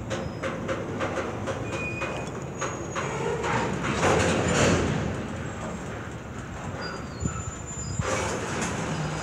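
Double-stack intermodal freight train rolling past close by, its wheels clacking over the rail joints with brief thin squeals as the train brakes to a stop. A rush of noise swells to its loudest about four seconds in.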